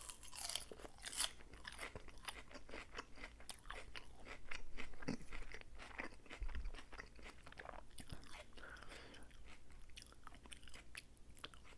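Close-miked chewing of a mouthful of salad: crisp, irregular crunching and crackling as the leaves are bitten and chewed.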